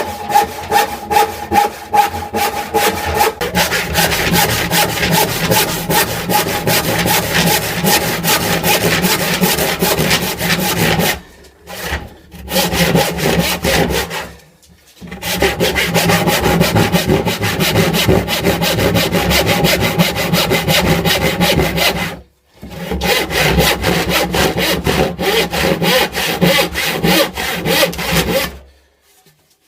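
A saw cutting through wood in a rapid run of rasping strokes. It pauses briefly three times and stops shortly before the end.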